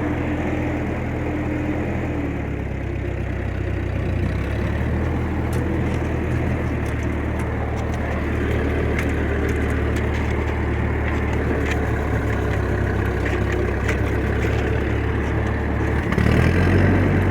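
1956 Massey Ferguson F40 tractor's gasoline engine running steadily while driving a bush hog rotary mower through the PTO. The engine note shifts about two seconds in and changes again near the end as the load changes.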